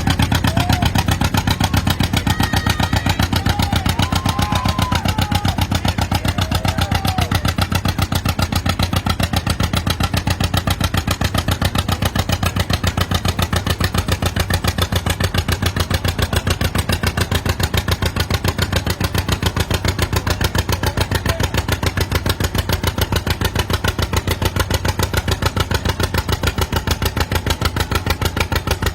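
Antique tractor engine running close by at a steady speed, with an even, rapid firing beat.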